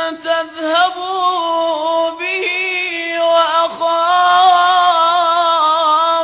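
A man reciting the Quran in melodic tajweed style, holding a long ornamented note with small wavering turns in pitch. The voice cuts off near the end, leaving a short echo.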